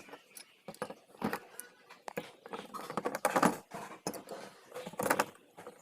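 Irregular clinks and knocks of small metal parts and hand tools being handled, the loudest about three seconds in.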